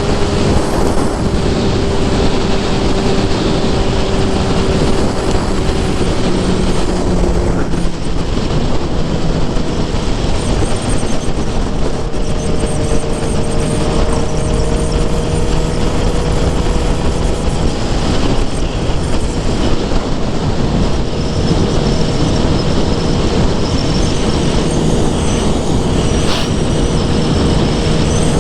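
Suzuki GSX-R750 inline-four engine and exhaust running steadily under way, its pitch drifting slowly up and down with small throttle changes, under a heavy rush of noise.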